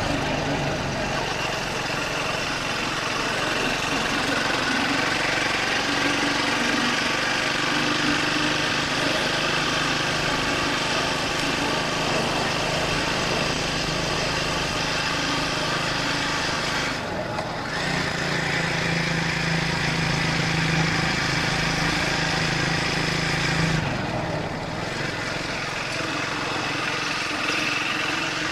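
Triumph Speed 400's single-cylinder engine running while the motorcycle is ridden, with wind rushing over the helmet-mounted microphone. The engine note shifts about two-thirds of the way through and again near the end.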